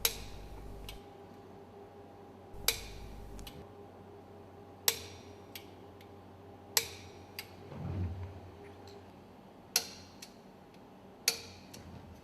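About half a dozen sharp metallic clicks, one to three seconds apart, from a wrench working the screws as the piston skirt screws are tightened one after another.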